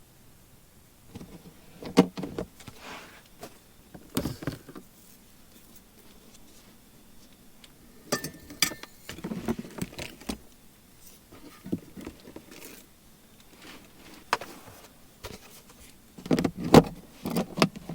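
Scattered knocks, clicks and rustling of things being handled and moved about, starting about a second in and growing busier near the end.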